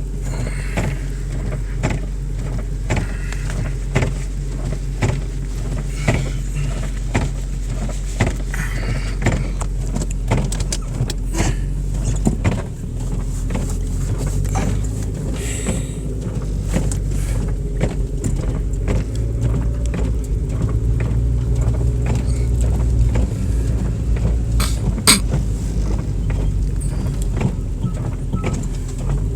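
Car engine and road noise heard from inside the cabin while driving on snowy streets, a steady low hum that grows a little louder in the second half, with frequent short clicks and knocks.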